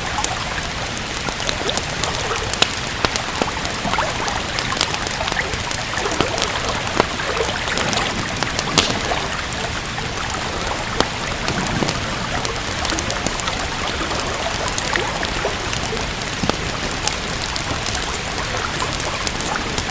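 Steady rain with a wood fire crackling: an even hiss of rain with many small, sharp pops scattered through it.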